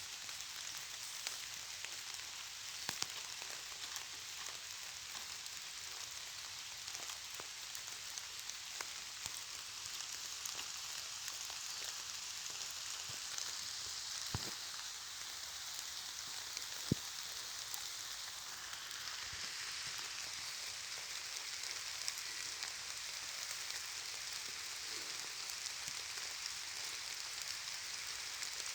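Steady rain: a dense hiss of falling drops with scattered sharper drop ticks, two louder taps about halfway through.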